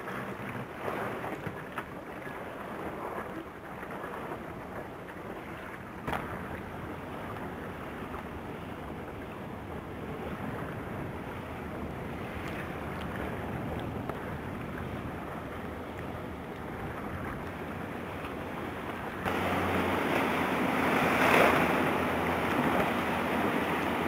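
Wind buffeting the microphone with water rushing and splashing along a boat's hull under way. A few knocks early on; about 19 s in it suddenly gets louder and hissier, swelling to a peak about two seconds later.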